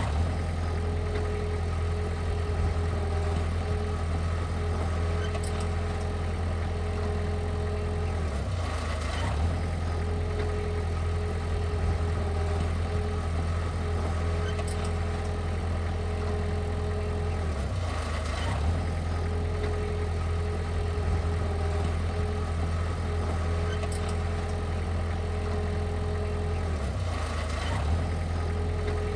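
Heavy equipment engine running steadily with a deep hum, its pitch dipping briefly and recovering about every nine seconds.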